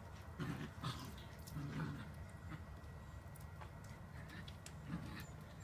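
Puppies playing, heard faintly: a few soft, low puppy noises about half a second, two seconds and five seconds in, over light scattered clicks and scuffles.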